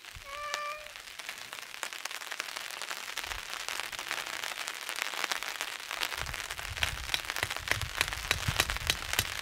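Rain falling on a canvas tarp shelter, with individual drops ticking on it. The drops grow denser and heavier about six seconds in, adding low thuds. A brief single call sounds near the start.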